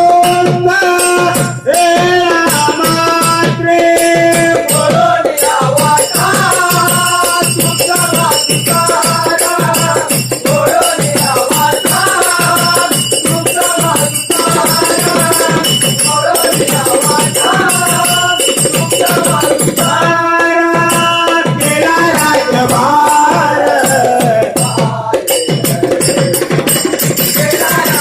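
Bhajan group playing devotional music: a pitched melody over fast, steady rhythmic percussion, with a high ringing shimmer throughout.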